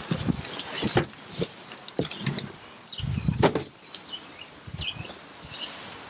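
A cardboard shipping box being handled and opened, with irregular scrapes, rustles and knocks, one longer scrape about halfway through.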